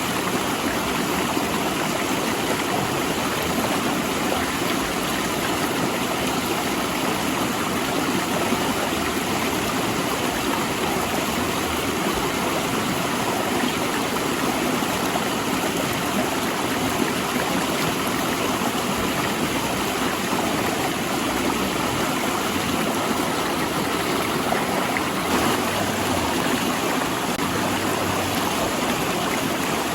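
A fast river rushing over and between large rocks, a steady, full water noise.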